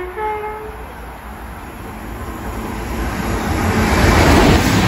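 Avanti West Coast express train passing non-stop at speed. A short two-note horn sounds at the very start, then wheel and air noise builds steadily, loudest near the end as the train reaches the platform.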